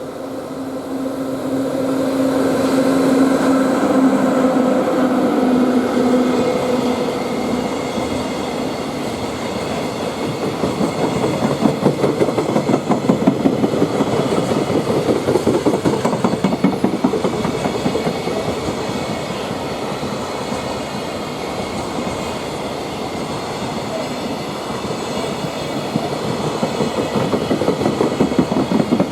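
Freight train passing close by: a steady locomotive hum for the first several seconds, then a long string of freight wagons clattering rapidly over the rail joints.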